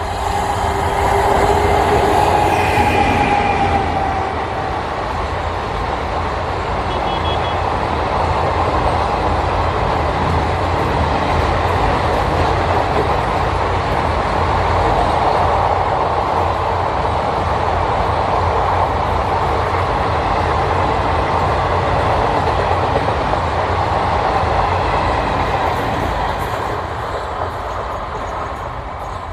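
An electric freight locomotive hauling an express passenger train passes close by at speed. A tone from the locomotive drops slightly in pitch and fades within the first few seconds. The coaches then roll past with a steady rumble for about twenty seconds, fading near the end as the train draws away.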